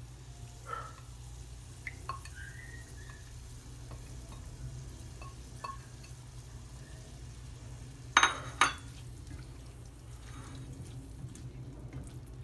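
Cream being stirred into mushrooms in a frying pan: light scrapes and clinks of a utensil against the pan, with two sharp knocks about eight seconds in, over a steady low hum.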